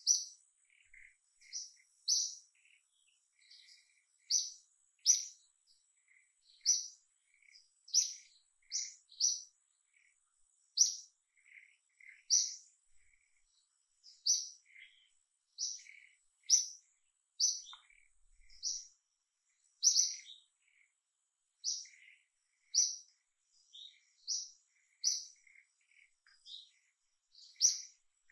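Birds chirping: short, high, sharp chirps repeated roughly once a second, with softer, lower notes in between.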